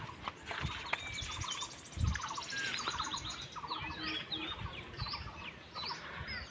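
Several small wild birds chirping and twittering in the trees: many short calls that slide up and down, with quick trills. There is a low bump about two seconds in.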